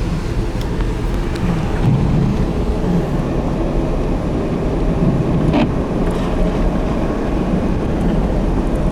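Steady low rumble of a car driving on a snowy road, with wind rushing past the car and buffeting the microphone. There is a single sharp click about five and a half seconds in.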